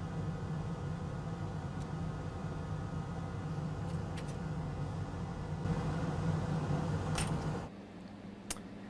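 Steady low mechanical hum that cuts off suddenly near the end, with a few faint light clicks over it.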